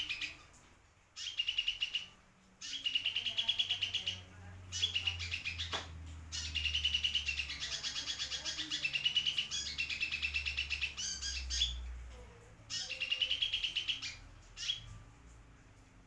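A sunbird, the 'kolibri merak', singing in bursts of fast, high trilling notes with short pauses between them, and a longer unbroken run in the middle.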